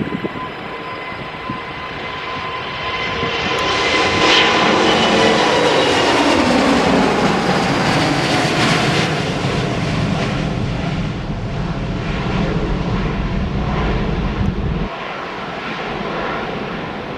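Airbus A350-900 jet engines at takeoff power as the airliner passes. The noise builds to its loudest about four to nine seconds in, while the engine whine falls in pitch. A deep rumble lingers and drops away near the end.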